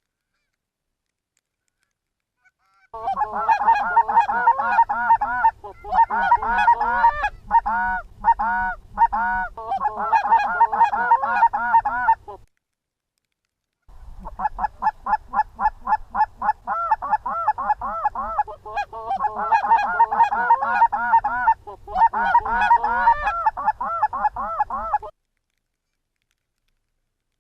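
Rapid Canada goose honking and clucking, many short calls in quick succession, in two long runs with a brief break between them.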